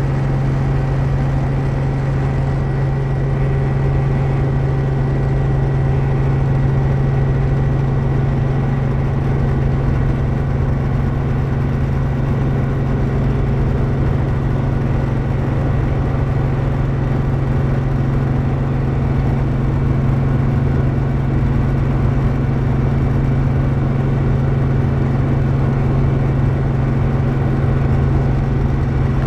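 Helicopter in flight: a loud, steady drone of engine and rotor, a constant low hum with fainter steady tones above it.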